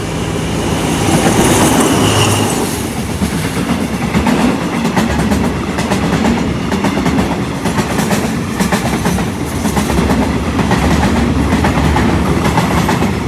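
Train passing close by, its wheels clicking over the rail joints above a low, steady rumble.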